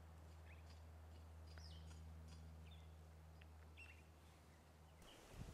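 Faint scattered bird chirps, short quick notes, over a low steady hum that cuts off about five seconds in, followed by a soft low bump.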